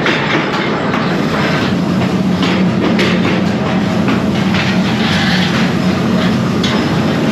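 Factory machinery running continuously with a dense, irregular clatter over a steady hum.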